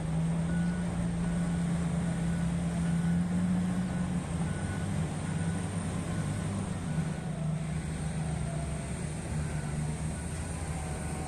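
Heavy earthmoving machine's diesel engine running steadily with a deep drone. A faint short high beep repeats about every three-quarters of a second, clearest in the first half.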